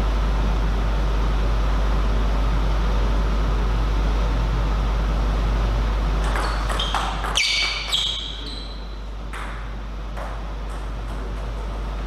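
Table tennis ball clicks over a steady hall hum, with a short ringing ping as the loudest moment just past the middle. Near the end a run of ball bounces comes faster and faster as a ball settles.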